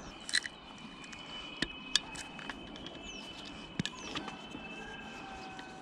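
Quiet outdoor village background with a few sharp clicks and knocks scattered through it, over a faint steady high tone, with a couple of short falling chirps in the middle.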